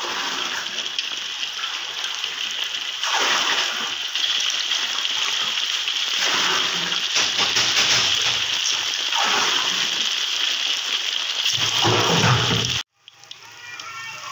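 Flour-battered tofu pieces frying in hot oil: a loud, steady sizzle that swells louder about every three seconds as more pieces go into the oil. Near the end it cuts off abruptly and comes back as a softer, crackling sizzle.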